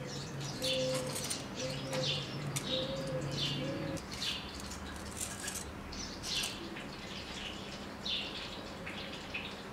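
Small birds chirping in short, repeated high calls, with a few low cooing notes under them in the first four seconds.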